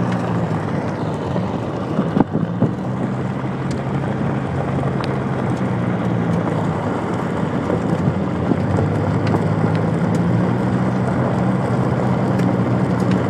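Car driving, heard from inside the cabin: a steady engine and road drone. There is a sharp thump about two seconds in and a few light ticks scattered through.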